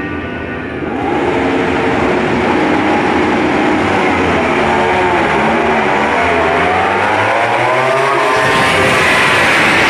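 MotoGP racing motorcycles going past at speed, several engines overlapping. It gets louder about a second in, and the engine pitch swings up and down as the bikes pass.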